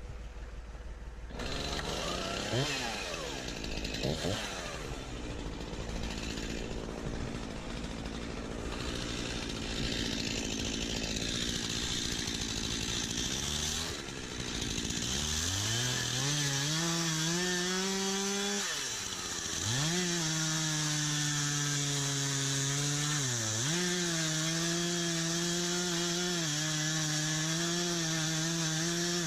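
Stihl MS251 C two-stroke chainsaw revving briefly, then running lower and steady. It then climbs to full speed and holds a high pitch, dipping briefly twice.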